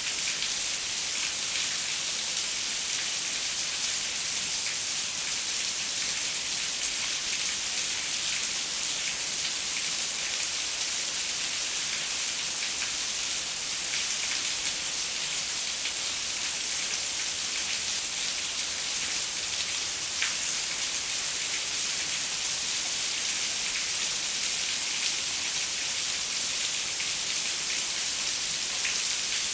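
Steady rain on a window pane: an even, high hiss with scattered drop ticks, a few standing out a little more.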